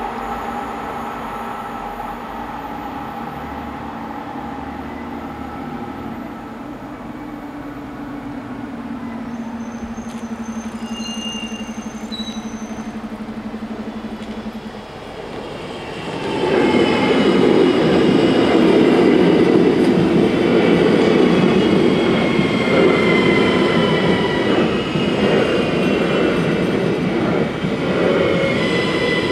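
Level-crossing warning bells ringing steadily for about fifteen seconds. From about sixteen seconds in, an NMBS AM08 Desiro electric multiple unit runs through the crossing, a loud rumble of wheels on rail with a high whine over it.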